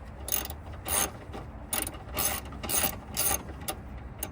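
Hand ratchet wrench worked in short strokes, about seven bursts of clicking roughly every half second, loosening the fasteners on a car headlight assembly.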